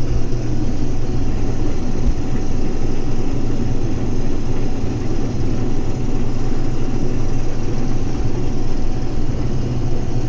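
Case IH 2388 combine running steadily under load while harvesting heavy wheat: a constant deep engine hum with the machinery's even drone, heard from inside the cab.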